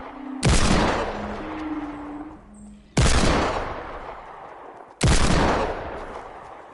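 Three loud blasts, each starting suddenly and dying away over about two seconds.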